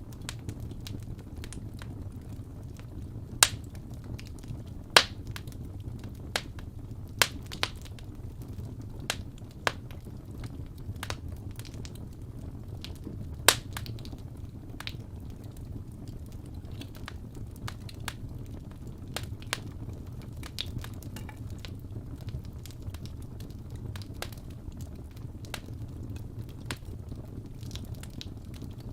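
Wood fire in a fireplace crackling: burning logs give a steady low rumble of flame under irregular sharp pops, with a few loud snaps about 3.5, 5 and 13.5 seconds in.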